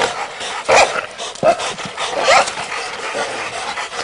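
Hunting dogs barking and yelping while they hold a caught wild boar, with a few short sharp cries about a second, a second and a half, and two seconds in.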